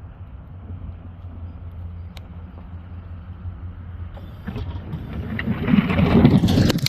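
A vehicle running with a steady low hum; about four and a half seconds in, a louder rushing noise builds up and peaks near the end.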